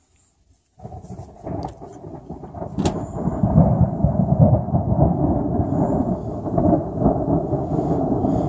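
Loud, rumbling storm noise from the remnants of a hurricane, starting abruptly just under a second in and building, with a sharp click about three seconds in.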